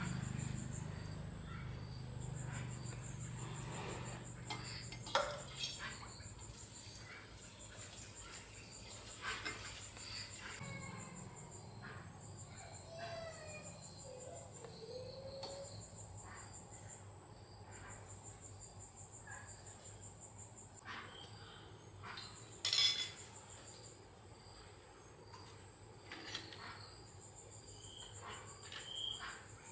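Insects trilling steadily in a high, evenly pulsing drone, with a few scattered sharp clicks or knocks and a low hum that dies away in the first part.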